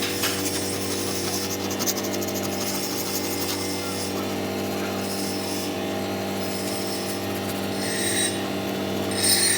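A power tool running steadily, its motor holding an even tone, with a hissing working noise over it that comes and goes.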